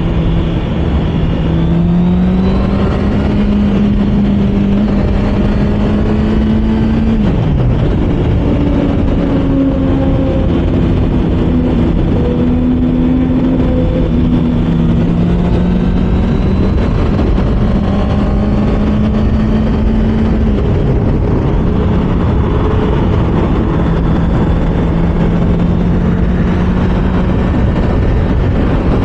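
Honda CBR650R inline-four engine running under way, its note climbing and holding, with two sudden drops in pitch about 7 and 20 seconds in as the throttle is rolled off or a gear changes. Wind rush on the rider's microphone runs underneath.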